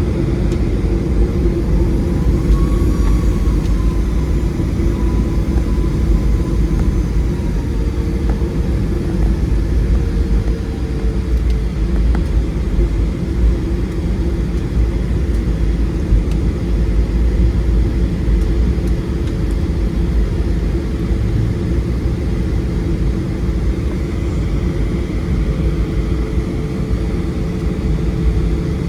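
Steady in-flight cabin noise of a Boeing 737-700: a loud, even rumble of airflow and engines with a faint steady hum running through it.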